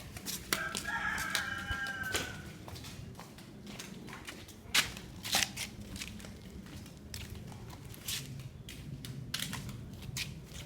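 A rooster crows once, a call of about a second and a half starting about half a second in. It is followed by scattered crunching and crackling clicks.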